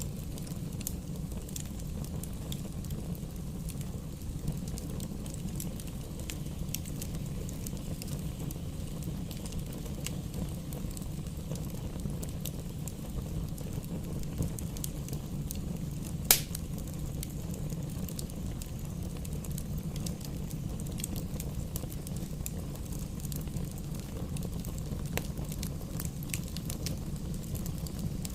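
Wood fire burning in a fireplace: a steady low rumble with scattered crackles throughout and one loud sharp pop from the logs about halfway through.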